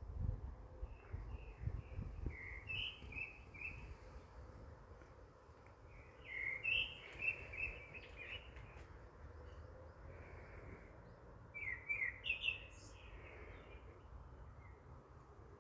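Songbirds chirping in three bouts of quick, high notes, with pauses between, over a steady low rumble.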